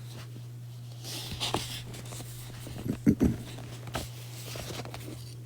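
Steady low hum with faint rustling and a few soft clicks, and two brief low murmurs about three seconds in.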